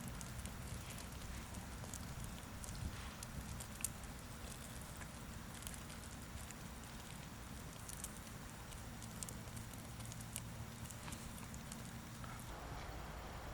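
Campfire crackling, with scattered sharp pops at irregular intervals.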